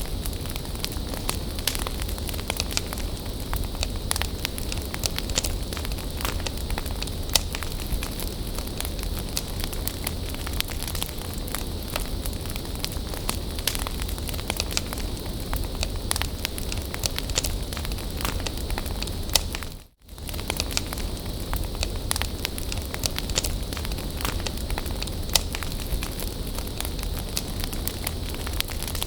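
Wood fire burning with a steady hiss and frequent sharp crackles and pops, cutting out for a moment about two-thirds of the way through.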